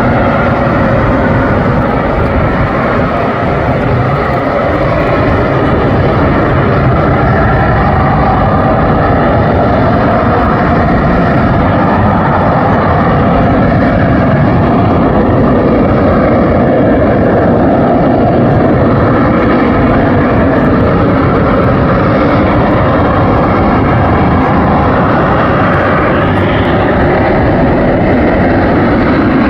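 Harrier AV-8B jet's Pegasus turbofan running loud and steady for the whole stretch, a dense roar with slowly drifting tones in it.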